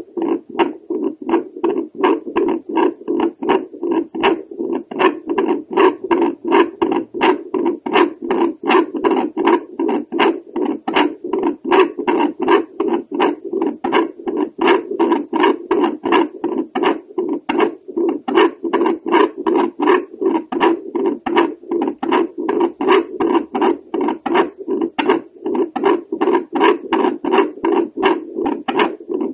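Home doppler held over a woman's chest at the aortic valve, picking up her heartbeat as an even train of pulsing whooshes over a steady hum.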